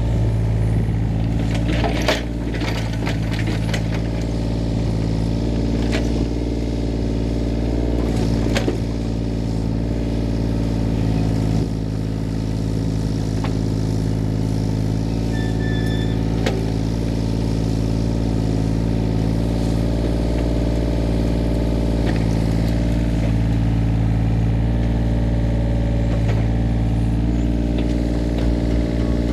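A diesel engine on a piece of heavy equipment running at a steady speed, with a few sharp knocks over it.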